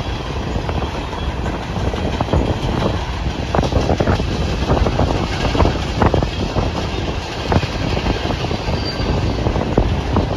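A Norfolk Southern freight train of open-top hopper cars rolling past, its steel wheels giving a steady rumble with irregular clacks over the rail joints.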